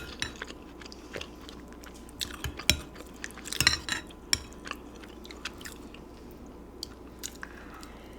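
Close-miked chewing and mouth sounds of someone eating pozole soup, with scattered small wet clicks and smacks.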